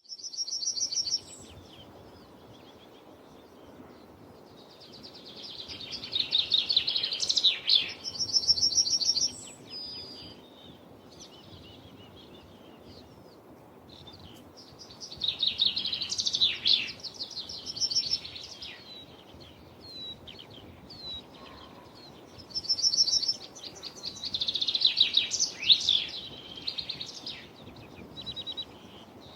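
A songbird singing: bouts of rapid, high chirping trills a few seconds long, repeated about four times with pauses of several seconds between them.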